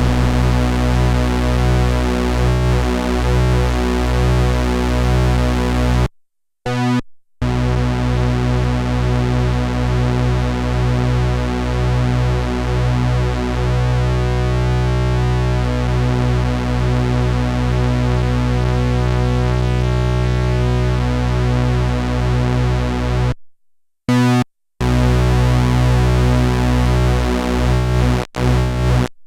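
Sequential analog polyphonic synthesizer playing held notes over a steady bass, with pulsing, shifting upper tones. The sound cuts out abruptly to silence a few times: twice about six to seven seconds in, again around twenty-three to twenty-four seconds, and briefly near the end.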